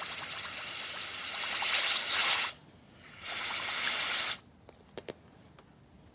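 Compressed-air blow gun hissing through the passages of a carburettor metering plate in two bursts, the second cut off sharply, with a spluttering, liquid edge as air and fuel are forced through the drillings; a few light clicks follow. The flow shows the passages are open.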